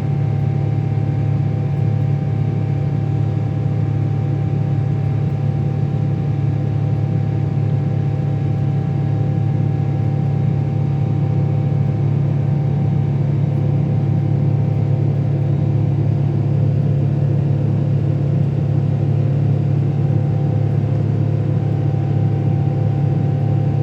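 Cathay Pacific Boeing 777-300ER's GE90 turbofan engines: a steady low drone at a constant level, with faint steady whine tones above it.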